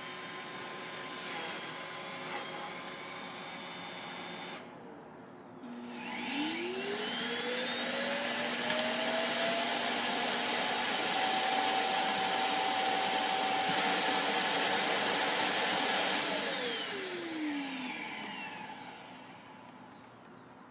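A steady motor hum cuts out, then the Roomba Combo i5+ self-emptying base's evacuation motor spins up with a rising whine. It runs loud and steady for about five seconds, then winds down with a falling pitch.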